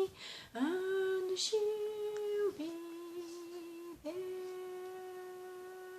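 A woman humming wordless sustained notes with no accompaniment. She takes audible breaths early on, sings a few notes that step up and then down, and settles on a long held note that slowly fades.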